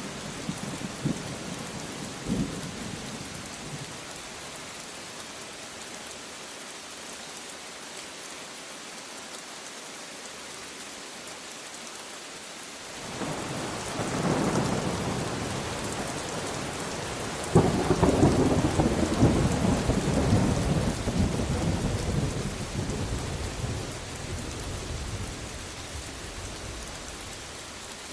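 Steady rain with thunder: the tail of a low rumble fades in the first few seconds, then a new roll of thunder builds about halfway through, breaks into a sharp, loud crack a few seconds later, and rumbles on before dying away near the end.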